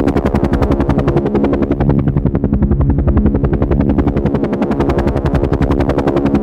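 Helicopter running steadily: the rotor blades beat in a rapid, even pulse over a steady engine hum.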